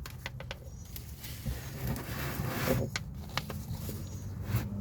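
Flathead screwdriver working a plastic oil drain plug loose: scattered small clicks and a short stretch of scraping about two to three seconds in, over a steady low hum.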